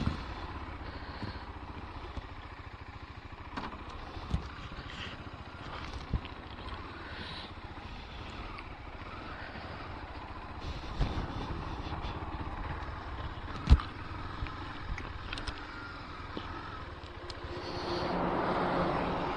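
KTM Duke 390's single-cylinder engine running on the move, a low steady pulsing rumble with some noise over it, broken by a few sharp knocks, the loudest about 14 seconds in. The engine and noise grow louder near the end.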